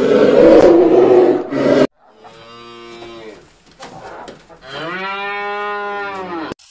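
A brown bear's loud roar that cuts off about two seconds in, followed by a cow mooing twice, the second moo louder and longer.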